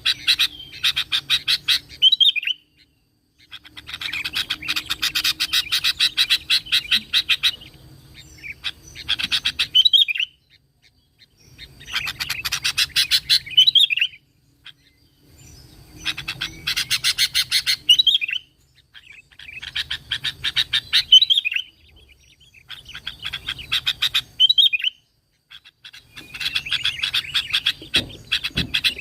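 Sooty-headed bulbul (kutilang) singing in repeated bouts about every three to four seconds. Each bout is a fast run of chattering notes ending in a short curling whistle.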